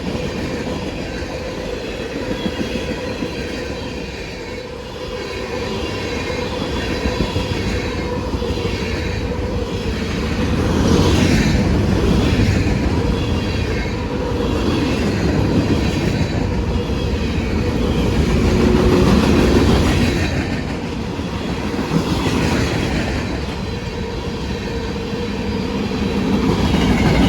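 Freight cars of a Norfolk Southern manifest train rolling past at close range: a steady rumble of wheels on rail that swells and eases several times, with repeated clacks over the rail joints.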